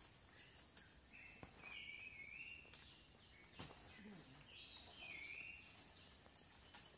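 Faint forest ambience with a bird calling in two short phrases of high, stepped whistled notes, about a second in and again about four and a half seconds in, and a few faint taps.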